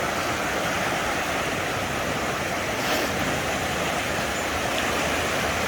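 Steady rushing noise of a river in flood, fast-moving high water.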